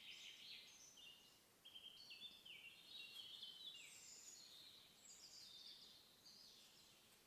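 Faint birdsong in woodland: several small birds singing at once, short overlapping trilled phrases with no single call standing out.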